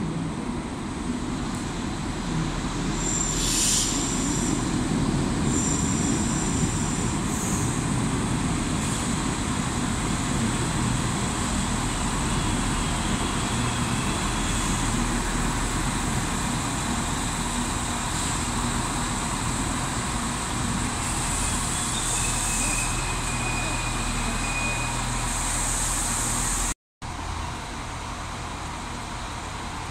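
An Irish Rail 22000 Class diesel railcar moving through the station: a steady diesel engine drone with rail running noise. Brief high-pitched squeals come from the train several times. Near the end the sound cuts out for a moment and comes back quieter.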